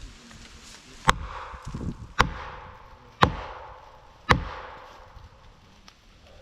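Four hard, evenly spaced blows, about one a second, each ringing off briefly: a felling wedge being pounded into the back cut to tip a leaning pine.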